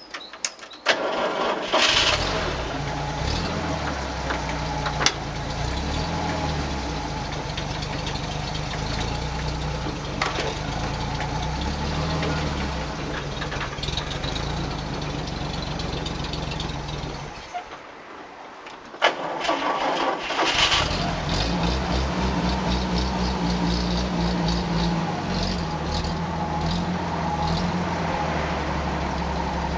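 An engine starts with a sharp click about a second in and runs steadily, cuts out for a second or two past the middle, then starts again and keeps running.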